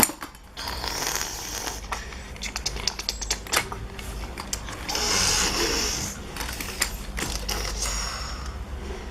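Light clicks and clatter of small die-cast toy vehicle parts being handled, a quick run of them about three seconds in, with two stretches of rustling.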